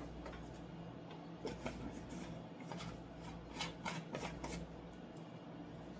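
Kitchen items being handled: a scatter of faint clicks, taps and rubbing sounds over a steady low hum.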